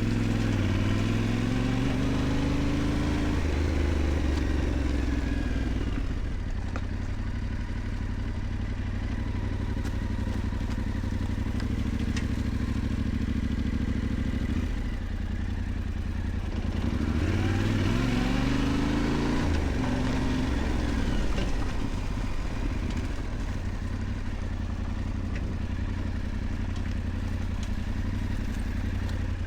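Yamaha Ténéré 700's parallel-twin engine running steadily under way, rising in pitch as it accelerates near the start and again a little past halfway, with brief dips between.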